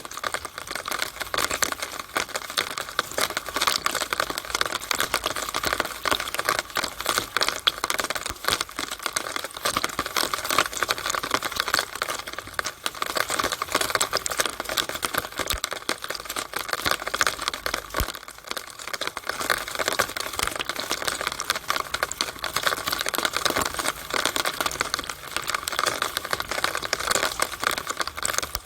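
Rainwater running down a downspout, a dense, irregular pattering of drops splashing inside the pipe that keeps on without a break.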